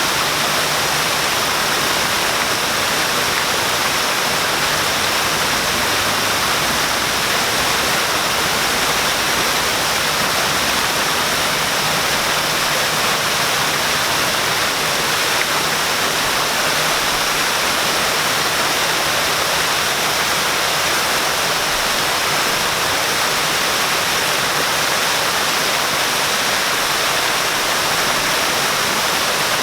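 Waterfall: a steady, unbroken rush of falling water splashing, with no change over the whole stretch.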